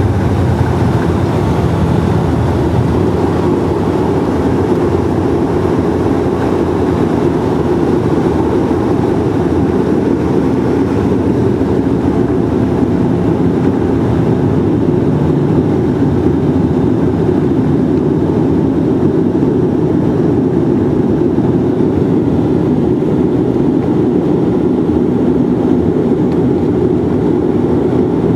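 Bombardier Dash-8's twin turboprop engines and propellers, heard inside the cabin as a loud, steady drone during the landing.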